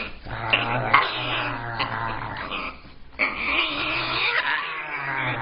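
Parrot vocalising harshly in a growl-like, wavering stream, with a few sharp clicks and a brief pause about three seconds in.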